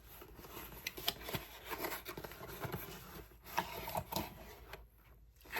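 Hands opening a package: irregular rustling and scraping with scattered small clicks and taps.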